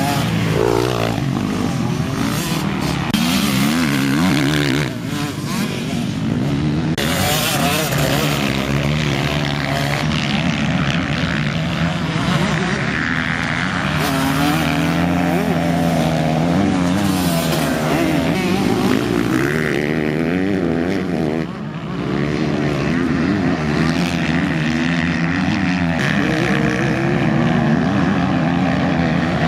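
Motocross bike engines at race pace, revving hard, the pitch rising and falling again and again with throttle and gear changes. It dips briefly twice, about five seconds in and again past the twenty-second mark.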